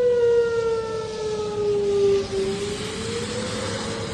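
Outdoor tornado warning siren wailing, its pitch sliding slowly down and then climbing again about two and a half seconds in.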